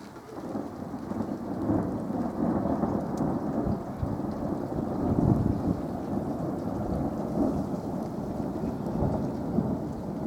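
Thunder rolling in a thunderstorm. A low rumble builds over the first second or two, then keeps rolling, swelling and easing with no sharp crack.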